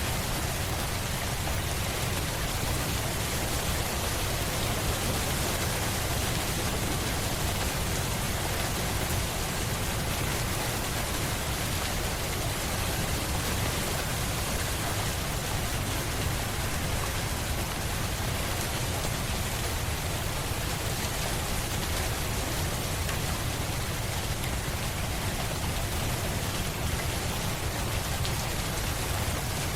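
Steady, even rain hiss with a deep rumble beneath it, unchanging throughout.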